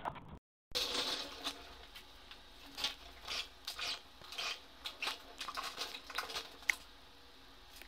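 Irregular hand scraping strokes during floor repair work, a few strokes a second, broken by a brief total dropout about half a second in.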